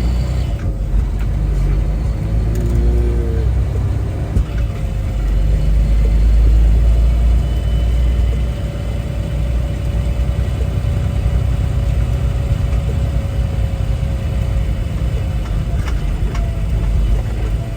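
Semi-truck's diesel engine and road rumble heard inside the cab while driving, a steady low drone that swells a little about a third of the way through.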